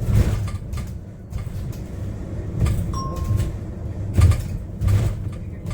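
Interior noise of a Yutong U12 city bus on the move: a steady low rumble with several knocks and rattles from the body, and a short beep about three seconds in.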